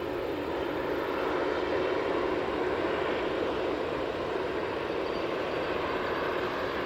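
Jet engines of a Boeing 787-9 Dreamliner airliner running, heard as a steady rushing noise that holds level.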